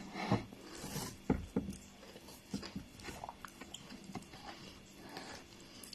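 A person eating pounded yam and soup: soft chewing and mouth clicks with scattered small knocks.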